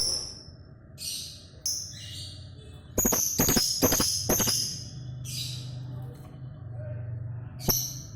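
Lovebird chattering in short, high-pitched bursts, with a few sharp clicks among them, the kind of lure call played to set a pet lovebird singing.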